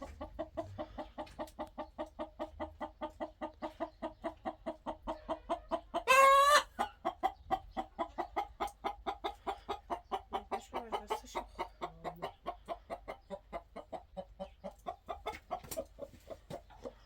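Chickens clucking in a quick, steady run of about five clucks a second. One louder, wavering squawk comes about six seconds in.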